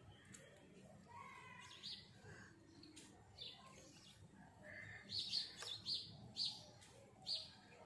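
Small birds chirping in short, high calls, most of them bunched together about five to seven seconds in, over a faint background.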